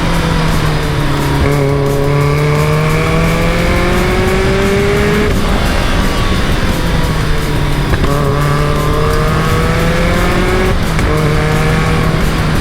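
Caterham Super Seven's engine pulling hard, its pitch climbing through the revs, breaking off at a gear change about five seconds in, sagging, then climbing again to another shift near the end.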